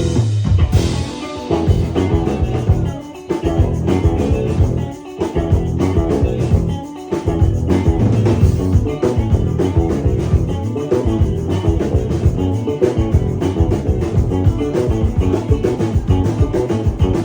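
Live rock band playing loud with drum kit and electric guitar, with a few brief breaks in the first half; the band stops together right at the end.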